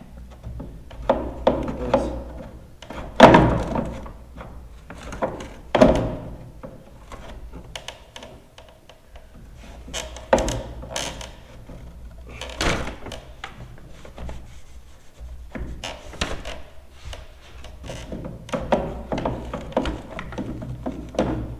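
Irregular knocks and clunks of a tractor light housing's parts being handled and fitted back together by hand, loudest a little after three seconds and near six seconds in, over a low steady hum.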